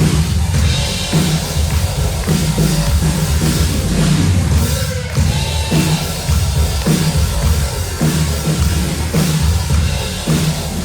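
Rock music with a drum kit beat and heavy bass, playing loudly throughout.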